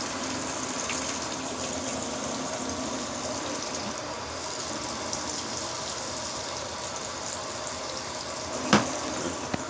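Water running steadily into the wash tub of a portable washing machine as it fills for the rinse. A single sharp knock near the end.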